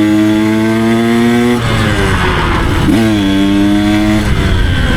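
Husqvarna 300 two-stroke dirt bike ridden hard. The engine note climbs under throttle, drops off about a second and a half in, blips once, pulls steady again, then the throttle shuts near the end as the rider brakes to test new pads.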